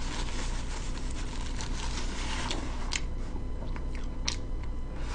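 Close-up chewing of a fish sandwich, soft crunching with many small mouth clicks. Two sharper clicks come about three and four seconds in.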